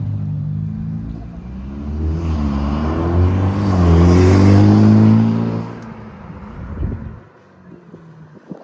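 A sports car's engine running, rising and falling in pitch as it revs, loudest about four to five seconds in, then dying away around six seconds.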